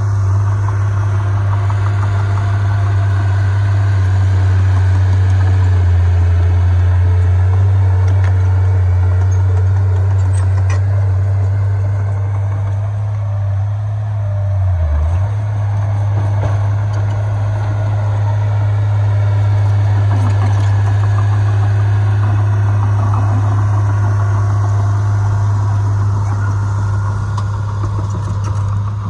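Heavy diesel engine of earthmoving equipment running steadily with a deep drone. The drone dips and wavers briefly about halfway through.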